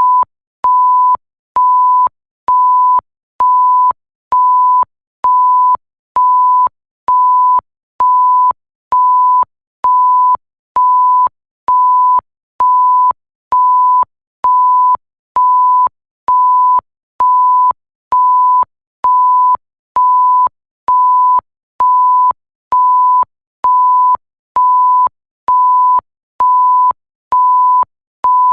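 Electronic censor bleep: a pure 1 kHz tone pulsed on and off, about one short beep a second, repeating evenly, with a faint click as each beep starts and stops.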